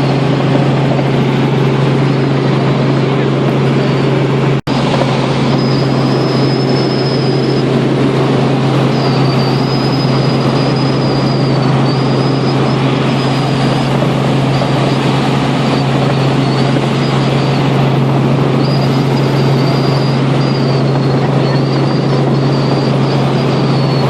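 Helicopter in flight: a loud, steady drone of turbine and rotor with a strong low hum and a faint wavering high whine. The sound drops out for an instant about four and a half seconds in.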